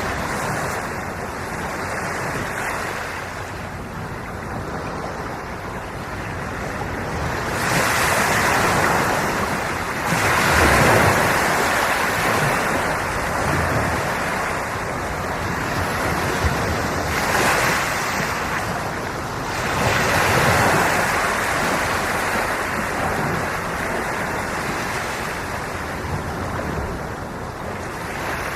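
Ocean waves breaking and washing on the shore, a steady rush of surf that swells louder with each wave, several times over, with some wind on the microphone.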